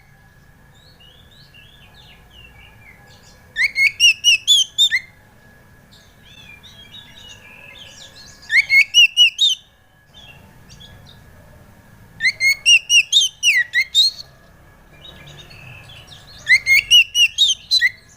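Oriental magpie-robin (kacer) singing: four loud bursts of song a few seconds apart, each a quick run of about eight sweeping notes, with softer chirps between.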